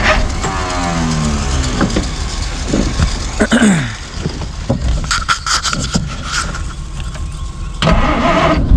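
1949 Plymouth's flathead six being cranked on a start attempt, which the owner thinks he has flooded. The engine sound dies away with a falling pitch over the first few seconds, followed by a few clanks, and cranking starts again near the end.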